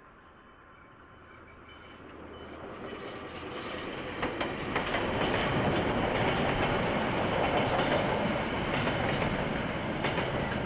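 KiwiRail train approaching and passing close by. Its rumble grows over the first few seconds and then stays loud, with a few sharp clacks of wheels over rail joints.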